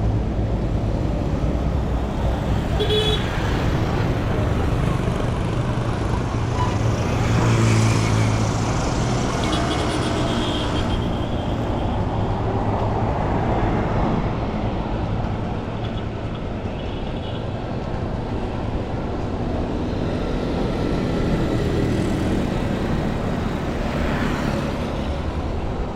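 Street traffic: vehicle engines running steadily, with the general rumble of passing cars.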